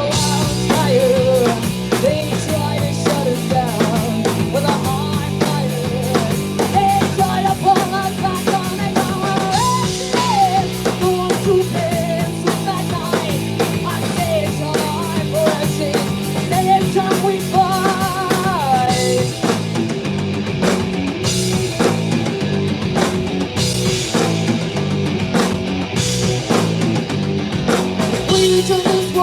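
Rock band playing live: electric guitar, bass and drum kit driving a steady beat, with a lead melody line that bends and wavers over it.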